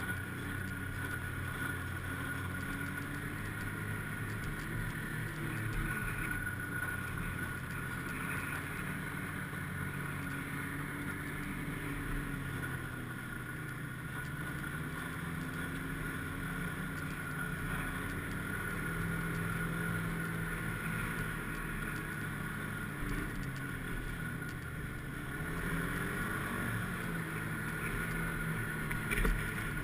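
Snowmobile engine running under way, its note slowly rising and falling with the throttle, with a steady high whine over it.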